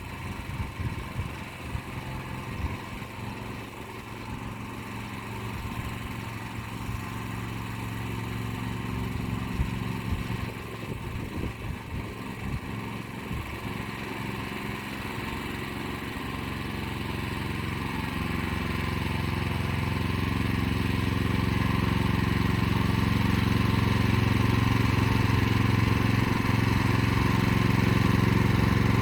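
Motor Sich walk-behind tractor engine running steadily while pulling an arrow-type hiller through the rows, with irregular knocks in the first half and the engine growing steadily louder over the second half.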